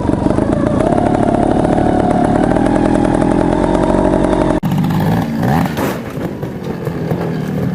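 Beta trials motorcycle engine running at steady raised revs, the note lifting a little about a second in. It is followed a few seconds later by a quick throttle blip that rises in pitch.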